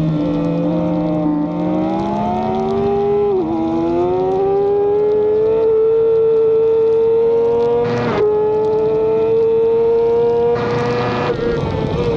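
Racing motorcycle engine heard onboard under hard acceleration, its pitch climbing steadily, with short dips at gear changes about three and eight seconds in. Bursts of wind rush near the end.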